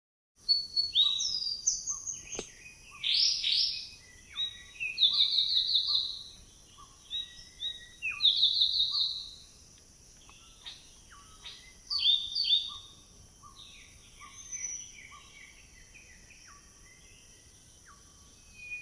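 A small black-and-white, long-tailed songbird singing: varied clear whistled phrases with sweeping notes, loudest in the first half and fading to scattered quieter notes near the end, over a steady high hiss.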